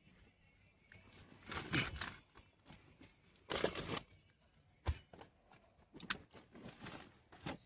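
Irregular rustling and crinkling handling noise inside a tent, in several bursts, with a few short sharp clicks in the second half.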